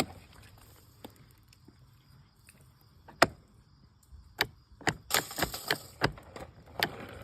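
A series of irregular sharp clicks and knocks, sparse at first and then coming thick and fast around the middle to the last part.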